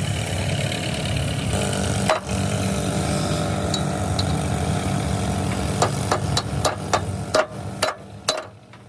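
An engine running steadily, then from about six seconds in a quick run of about eight sharp knocks, as of hammer blows on metal; the engine sound drops away near the end.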